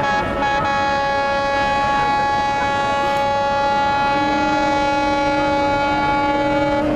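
Boat horns on the river sounding long, steady blasts at once, with a lower-pitched horn joining about four seconds in.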